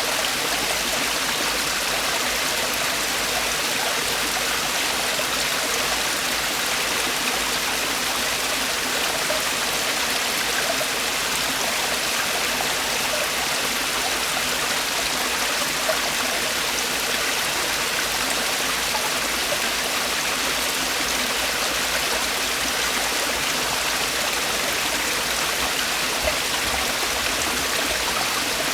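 Mountain stream water splashing and falling over rocks in a valley: a steady, even rush of water.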